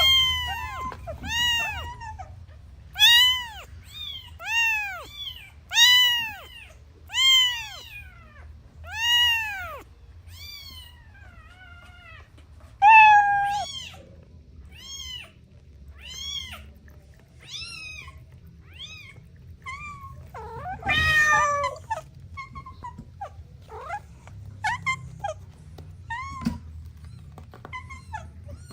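Kittens meowing over and over in high, arching cries, one every second or so for the first ten seconds, then fainter and more scattered, with one louder, rougher cry about 21 seconds in.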